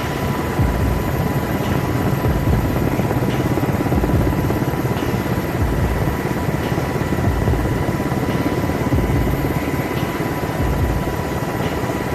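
Aircraft noise: a steady, loud rumble with a thin, steady whine over it.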